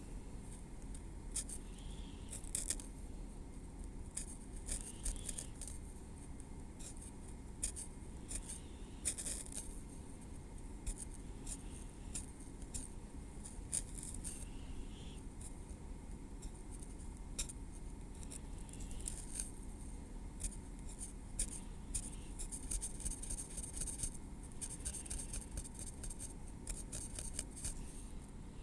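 Metal tweezers working over a scalp and through hair in a stream of crisp, irregular clicks and small scrapes, crowding together near the end.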